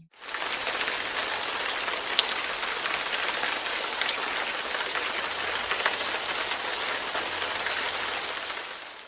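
Steady rain falling, a dense even hiss with scattered faint drop ticks, from a stock rain sound effect; it starts abruptly and fades out near the end.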